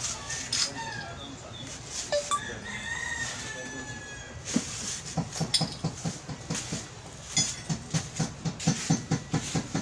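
A rooster crowing once, then a fast, even series of knocks, about five a second, running to the end.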